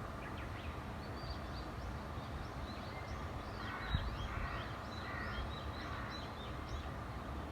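Small birds chirping: quick, repeated high arching notes over a steady low background rumble, with a single short knock about four seconds in.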